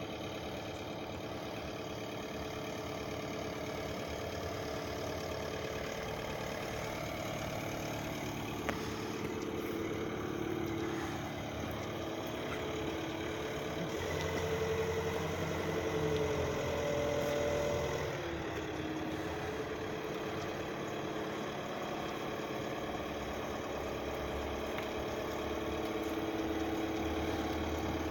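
Christ C160 Vitesse rollover car wash machine running with a steady motor hum. Its pitch shifts and grows a little louder about halfway through, then settles again.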